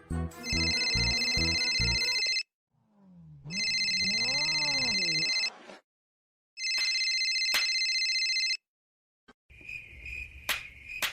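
An electronic telephone-style ringing tone sounds three times, each ring about two seconds long with short gaps between. During the second ring a pitched call rises and falls in pitch. Near the end come a few sharp clicks and some noise.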